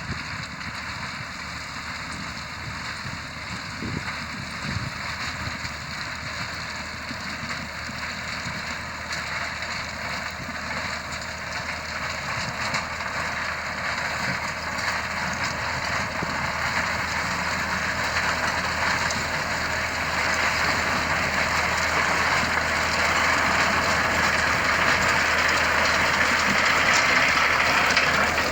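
Diesel engine of a heavy road-construction machine running steadily, getting gradually louder.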